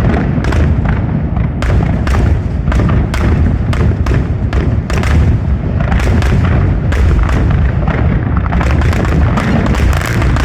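Fireworks going off in rapid succession: a continuous low rumble of booms with many sharp bangs over it, coming thicker and faster near the end.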